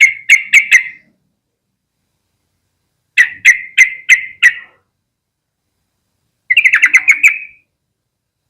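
Yellow-vented bulbul calling in three short bursts of sharp, chattering notes, the last burst faster than the first two.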